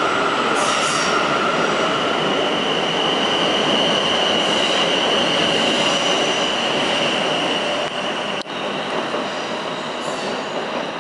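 Siemens Desiro Class 450 electric multiple unit pulling away from the platform, its wheels running over the rails with a steady high whine held over the noise. The sound slowly fades in the last few seconds as the train draws away.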